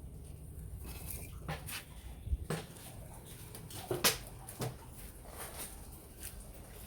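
Wood fire burning in a ceramic pot, giving a handful of sharp, separate pops and crackles over a low steady background; the loudest pop comes about four seconds in.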